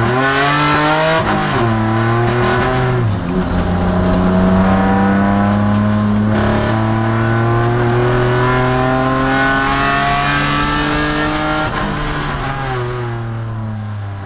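2002 Nissan Maxima race car's V6 engine accelerating: its pitch climbs, drops at an upshift about a second in, then rises steadily for about ten seconds before the throttle eases and the sound fades near the end.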